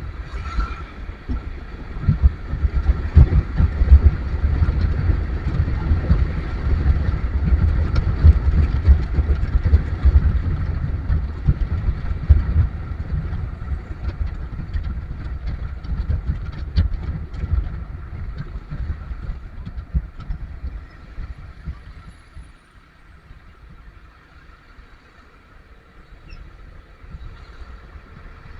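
Road vehicle on the move in slow traffic: a heavy, uneven low rumble of engine and road noise that swells early on and then dies down about three quarters of the way through.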